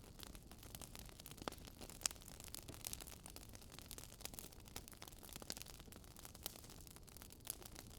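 Wood fire crackling: irregular small pops and snaps over a soft steady hiss.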